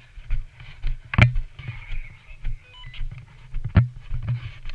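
Footsteps walking, about two steps a second, heard through a body-worn camera. There are two sharp cracks, one about a second in and one near the end, and a short electronic beep midway.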